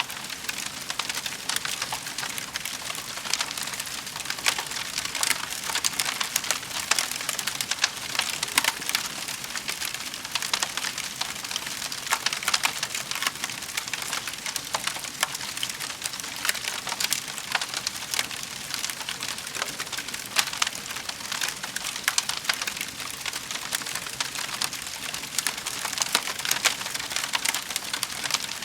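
Wood fire burning in a fireplace, crackling steadily with many irregular sharp pops and snaps over a soft hiss.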